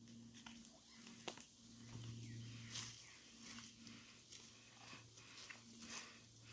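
Near silence: faint footsteps of someone walking, as soft scuffs less than a second apart, over a low steady hum.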